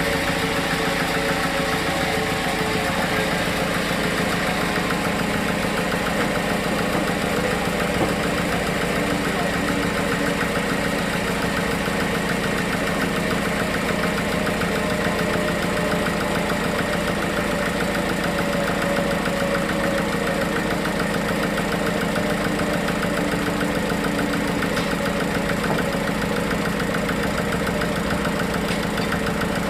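A sawmill's engine running steadily at an even speed, with a fast regular firing pulse and a steady low hum.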